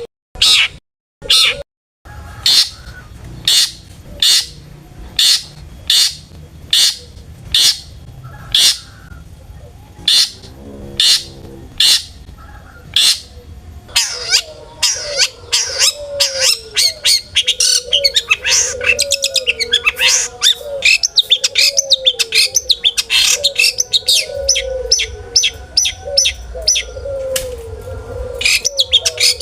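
Long-tailed shrike singing: loud, harsh call notes repeated about one a second, then about halfway a much faster, busier run of notes over a lower repeated warble.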